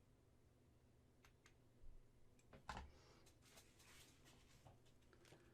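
Near silence with a few faint clicks and light rubbing as small resin model kit parts are handled and pressed together, over a low steady hum.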